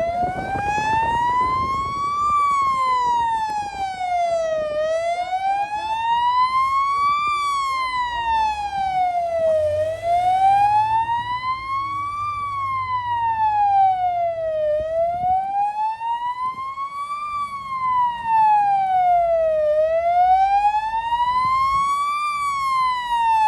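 Emergency vehicle siren wailing, its pitch sliding slowly up and down in an even cycle of about five seconds, over a low traffic rumble.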